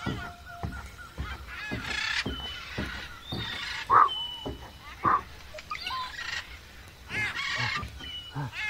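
A wooden digging stick strikes and scrapes repeatedly into hard, dry earth, loosening it to dig a hole. Several short pitched cries sound over the strokes.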